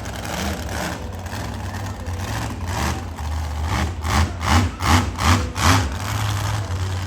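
Monster truck engine running at a low, steady rumble, then blipped in a quick series of short throttle revs, about two or three a second, from about two and a half seconds in to nearly six seconds in.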